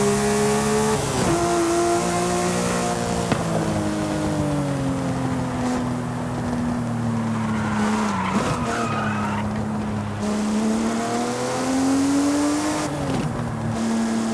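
Porsche Speedster's flat-six engine running on the move, its note sinking slowly and then climbing over a few seconds. There are short breaks about a second in, past the halfway point, and near the end, where the revs drop sharply.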